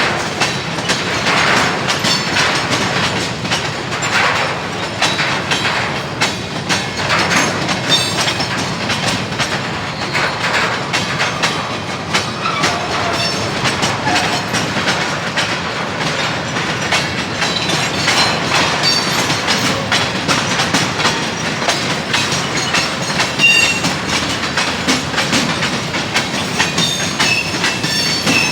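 CSX freight train's cars rolling past, the wheels clicking steadily over the rail joints, with brief high wheel squeals now and then.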